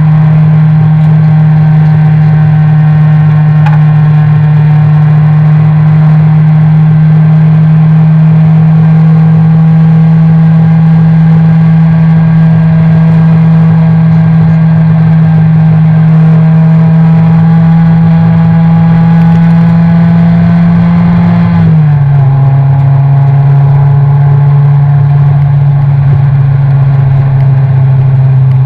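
Toyota race car's engine heard from inside the cabin, loud and held at steady high revs, with one gear change about 22 seconds in where the pitch drops and then holds.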